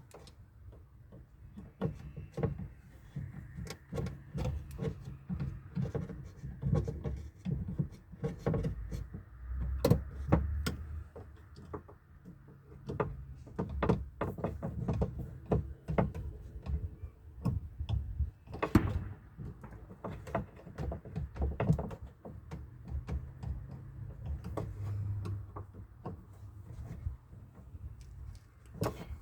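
Irregular clicks, knocks and rattles of hands reassembling a UAZ Patriot's front door: window-regulator parts and trim being handled and fitted back in place.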